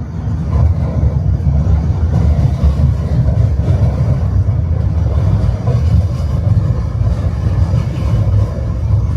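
Tram running along its rails, heard from inside the car: a steady low rumble of the wheels on the track.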